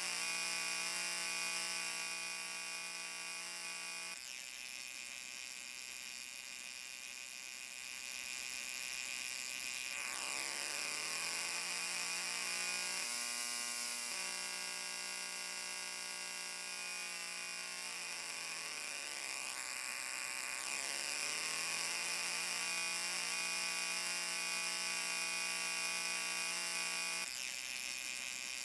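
A steady electric buzz with many overtones. In the middle it sweeps down in pitch and back up, then settles to a steady tone again.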